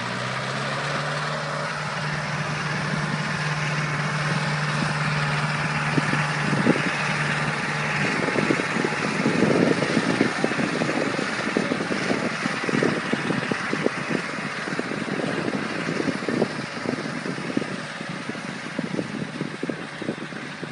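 A 90 hp Landini tractor running with a no-till seeder in tow: a steady engine hum, joined about seven seconds in by a dense, irregular clatter of knocks and rattles that lasts to the end.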